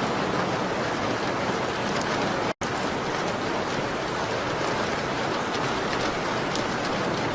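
Steady rain on a window: an even hiss with faint scattered ticks. The sound drops out for a split second about two and a half seconds in.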